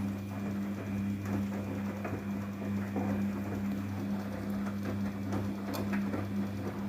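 Daewoo DWD-FT1013 washing machine running on a cotton 40°C wash: a steady electric motor hum with an irregular rattling and clicking over it.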